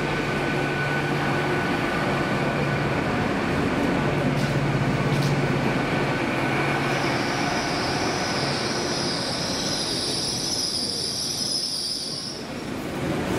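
GWR Hitachi Intercity Express bi-mode train moving along the platform, its underfloor engines running with a low drone that fades over the first half. From about halfway a high, steady wheel squeal sets in and stops shortly before the end.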